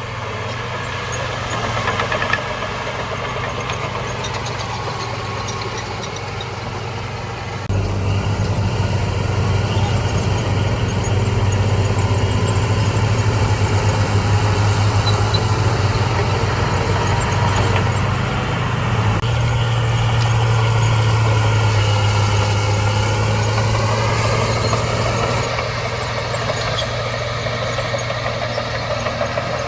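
Heavy diesel engine of earthmoving machinery running steadily, jumping louder about eight seconds in as it takes load, with its pitch rising and falling a little past the middle.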